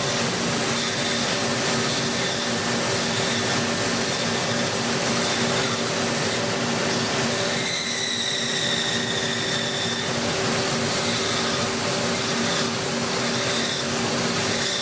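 CNC machine tool running: a steady hum under a constant hiss. A high whine comes in about halfway through, holds for about two seconds and drops slightly in pitch.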